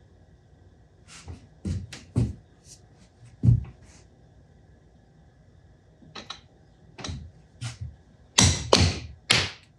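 A run of irregular knocks, taps and clicks as small parts and tools are handled and fitted together on a workbench, with one sharp knock about a third of the way in and a quick cluster of louder knocks near the end.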